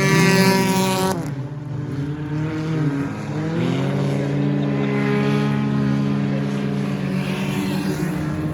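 Stock car engines running hard around the track. One car passes close and loud in the first second, then the engine note drops away and climbs again as cars accelerate.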